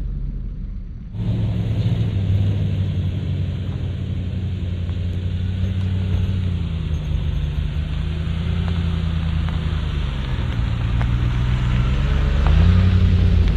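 Lexus GX460's 4.6-litre V8 with a Magnaflow exhaust, heard from inside the cabin while driving: a steady low drone over road noise. Its pitch sags twice and climbs near the end as the engine picks up speed.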